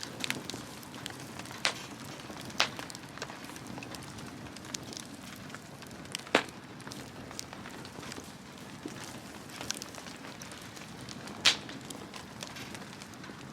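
Wood bonfire burning: a steady low crackle with a handful of sharp pops, the loudest of them near the end.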